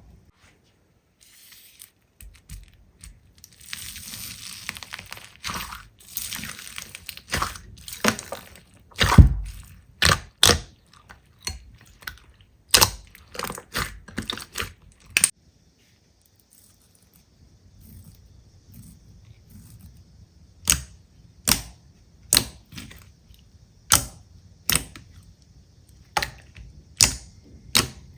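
Slime being pressed and poked, making sharp clicking pops as air pockets burst. A crackling hiss comes early on, and a run of separate clicks follows. The clicks pause briefly midway and then return at about one a second.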